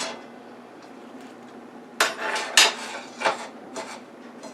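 Utensils clinking and knocking against a plate while food is set on it: a quiet start, then a few sharp clatters about two seconds in and lighter taps after.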